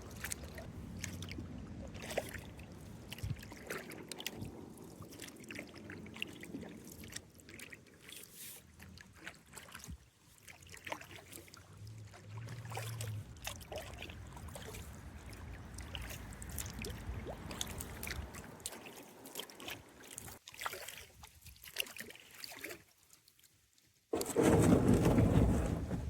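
Kayak paddling: the paddle blades dip and splash, and water trickles and drips off them. Near the end a loud, even rushing noise starts suddenly after a brief lull.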